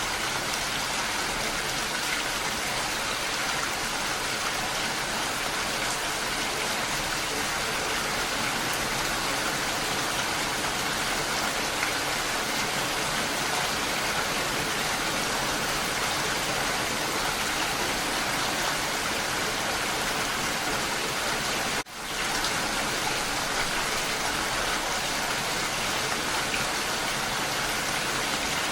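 Steady rain falling, an even hiss of many drops. It cuts out for a split second about three quarters of the way through, then carries on.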